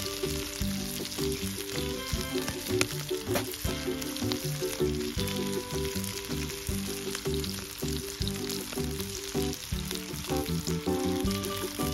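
Pork belly and king oyster mushrooms sizzling in fat on a hot griddle pan, with background music playing over it.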